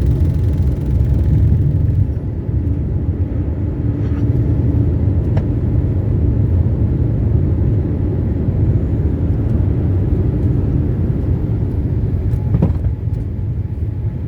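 Steady low rumble of a Boeing 787 airliner's engines and airflow, heard from inside the passenger cabin, with a faint steady hum over it and a couple of light clicks.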